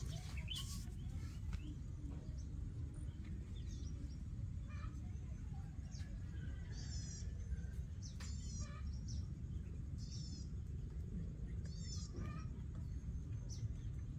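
Small birds chirping: four short, quick high calls in the second half, over a steady low rumble.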